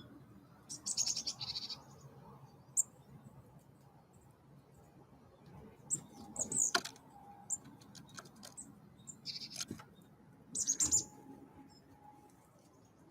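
Wild birds calling at a feeder: four short bursts of rapid, high chirping notes, with a few single sharp ticks between them.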